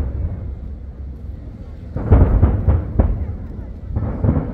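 Aerial firework shells bursting: a quick cluster of about four booms about two seconds in and more near the end, over a steady low rumble.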